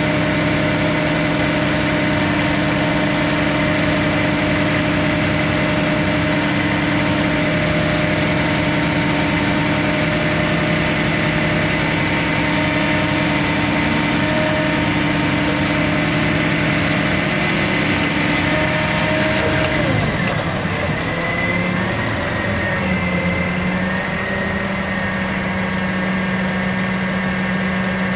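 Bucket truck's engine running steadily with a faint high whine over it. About two-thirds of the way through, the engine speed drops and settles to a lower, steady idle, and the whine stops.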